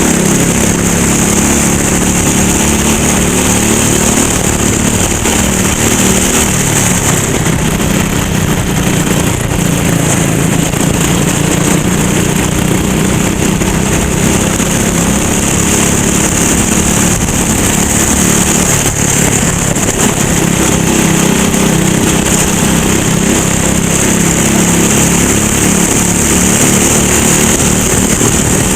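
Racing kart's small engine running flat out. Its pitch rises and falls with the throttle through the corners.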